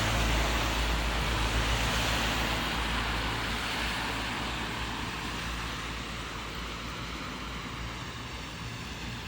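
Rainy-weather outdoor noise: a steady hiss with a low rumble beneath it, slowly getting quieter.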